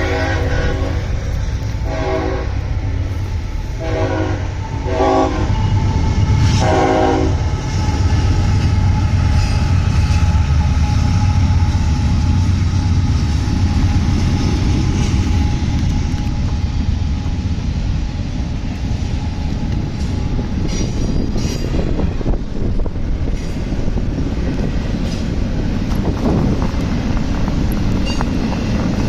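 About five short horn blasts in the first seven seconds, then a train passing close by: a steady low rumble with a held whine over it, and the clicking of wheels over rail joints a little past the middle.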